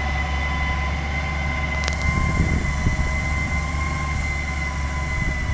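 New Holland TS115A tractor running steadily, a low engine hum under a constant high whine. A sharp click sounds a little under two seconds in, followed by a few light knocks.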